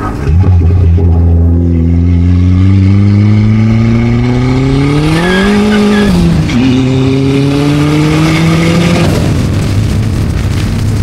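Swapped-in Dodge SRT-4 turbocharged 2.4-litre four-cylinder under hard acceleration: the revs climb steadily, rise quickly near the top, drop with an upshift about six seconds in, then climb again in the next gear. About nine seconds in the driver lifts off and the engine note falls away, leaving wind and road noise.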